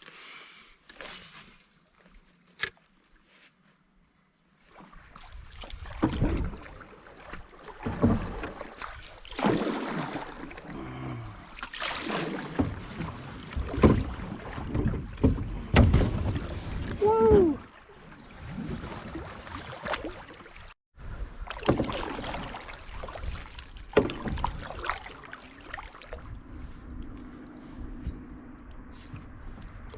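Canoe on the river: irregular knocks and sloshing of paddle and water against the hull, starting after a few quiet seconds, with a short squeak about halfway through and a steady low hum near the end.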